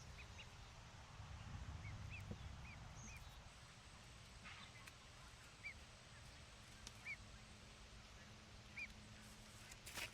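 Faint, short high-pitched calls from a pet waterfowl, about nine scattered single notes, over a low rumble.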